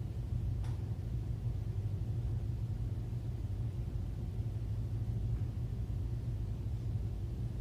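Steady low hum and rumble of room tone, with one faint tick less than a second in.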